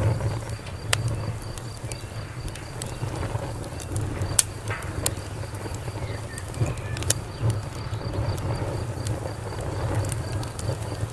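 Wood fire crackling, with scattered sharp pops over a low, steady rumble of the flames.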